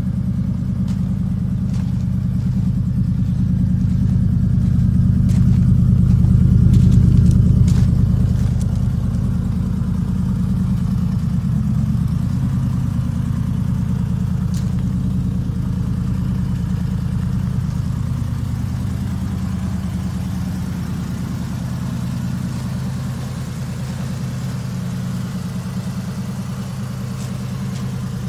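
Triumph Stag's 3.0-litre V8 idling steadily. It grows louder for a few seconds near seven seconds in, then settles back to an even idle.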